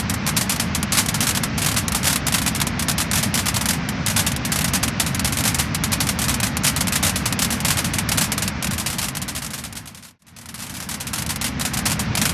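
Wood fire crackling and popping, a dense run of sharp snaps over a steady hiss. About ten seconds in the sound briefly fades almost to nothing and swells back.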